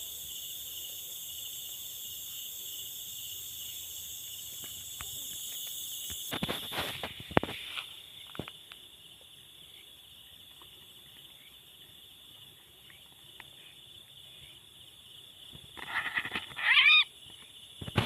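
Crickets and other insects trilling steadily, with a few rustles and knocks of the net being handled. Near the end comes a loud, harsh distress call from a yellow-vented bulbul (trucukan) held in the hand after being freed from a net.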